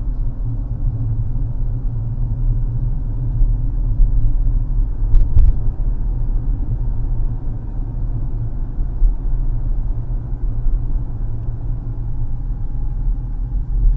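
Steady low road and engine rumble heard from inside a moving car, with a couple of short clicks about five seconds in.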